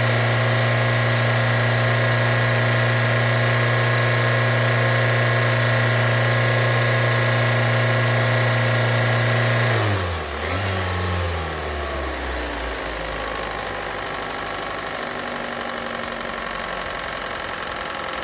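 2019 Kia Forte 2.0-litre four-cylinder engine running steadily during a run test. About ten seconds in, its speed falls away, and a quieter steady sound remains.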